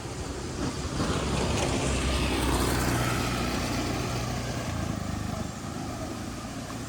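A motor vehicle driving past: its engine and tyre noise swell about a second in and fade away after about five seconds.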